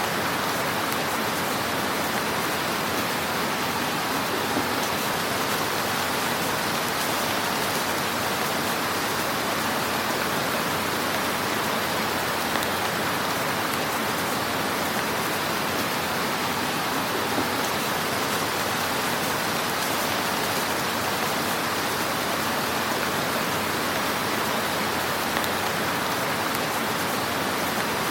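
Wood fire in a fireplace crackling steadily: a dense, even hiss of fine crackles with a few slightly louder pops scattered through.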